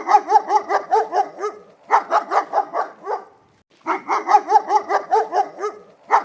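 A small dog yapping in quick runs of short barks, about five a second, with brief pauses between the runs.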